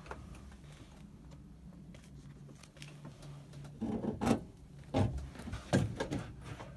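Several clunks and knocks with some rubbing in the second half, the loudest about four, five and six seconds in, over a faint steady low hum.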